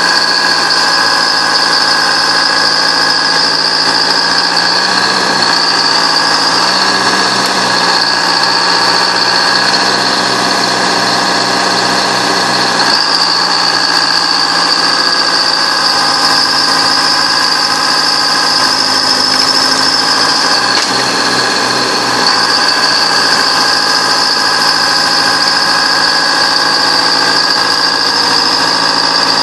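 Bulldozer running steadily, a high whine over the engine. The pitch shifts briefly a few times as the load changes.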